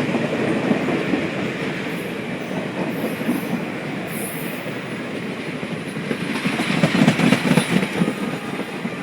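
Circus train rolling past, a steady rumble of steel wheels on the rails. About seven seconds in it grows louder, with a run of clicks as the wheels cross the rail joints.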